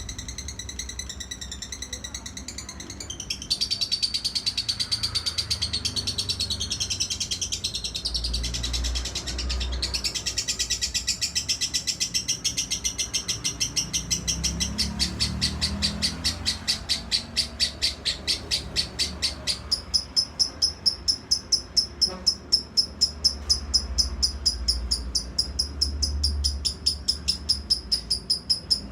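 Lovebird in a long, unbroken ngekek: a rapid, high-pitched chattering trill of many notes a second. It grows louder a few seconds in, and about two-thirds of the way through it changes to slower, louder pulses, about three a second.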